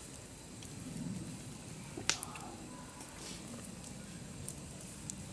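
Campfire crackling: scattered sharp pops over a low steady hiss, with one louder pop about two seconds in.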